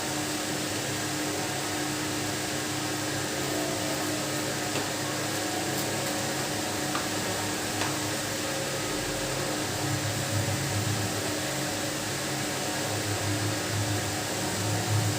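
A steady mechanical hum and hiss with one constant low tone, with a few soft low bumps in the last few seconds.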